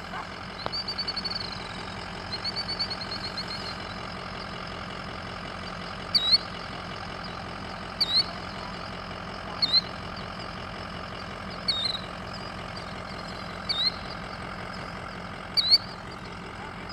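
Killdeer alarm calling over a vehicle's engine idling steadily: two rapid high trills in the first few seconds, then sharp single calls about every two seconds. These are the distress calls of a parent killdeer guarding its newly hatched chicks.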